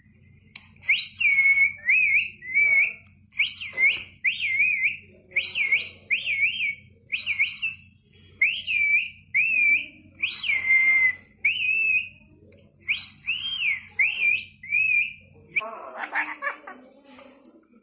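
Rose-ringed parakeet whistling a long series of short, clear notes that swoop up and down, one to two a second. A steady low hum runs underneath and stops near the end.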